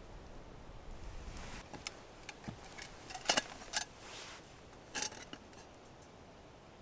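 Cookware and utensils clinking and knocking: a few sharp hits, the loudest three between about three and five seconds in, some with a short metallic ring. Low wind rumble on the microphone in the first second or so.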